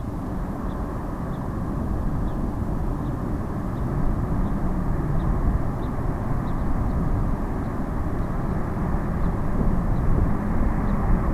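Jet airliner engines running: a steady low rumble that slowly grows louder.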